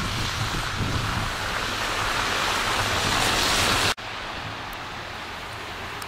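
Steady rushing wind noise on the microphone, growing louder and then cutting off abruptly about four seconds in, leaving a quieter hiss.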